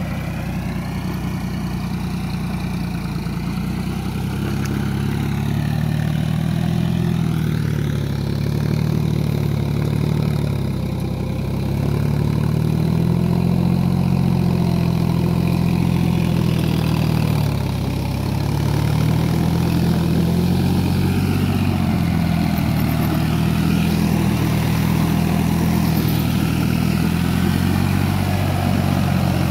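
John Deere 5045D tractor's three-cylinder diesel engine running under load through deep mud, its pitch rising and falling several times as the revs change.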